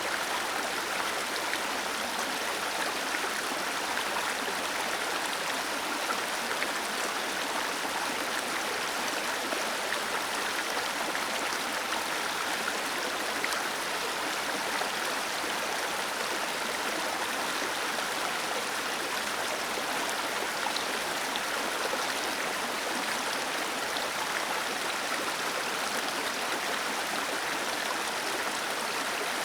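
Small waterfall cascading over stone into a stream: a steady rush of falling water with no change in level.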